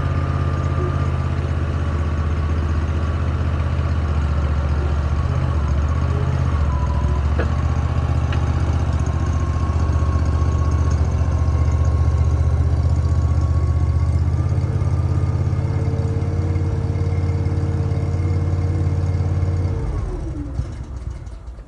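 An engine running steadily at idle, then shut off about 20 seconds in and winding down with a falling tone.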